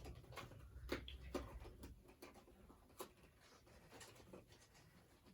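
Near silence with a few faint, scattered light clicks and rustles of small items being handled, typical of handling packaging.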